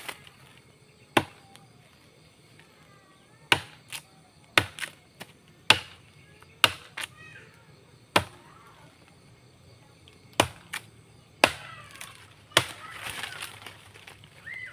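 A hand-forged spring-steel golok (machete) chopping into a dry tree: about a dozen sharp blows at irregular intervals, then a short burst of crackling rustle near the end.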